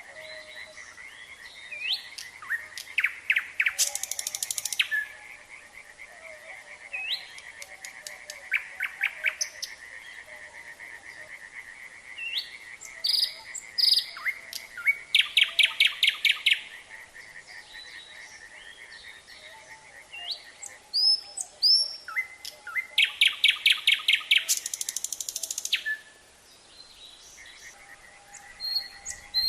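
Nightingale singing in separate phrases of fast repeated notes, rattles and clear whistles, three loud bursts several seconds apart. Underneath runs a steady, fast-pulsing frog chorus.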